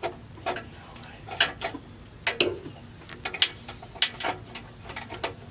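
Socket ratchet wrench clicking in short, irregular strokes as it works the clamp bolt on a car's exhaust tip.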